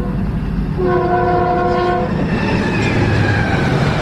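Train air horn sounding a chord, a short blast ending just after the start and a longer one from about a second in to two seconds, over the loud rumble and wheel clatter of a train passing at speed. Afterwards a few faint tones slide down in pitch as the train goes by.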